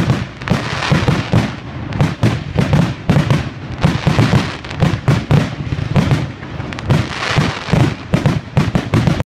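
Fireworks going off in quick succession: dense, irregular crackling bangs, several a second, with no let-up, cutting off suddenly near the end.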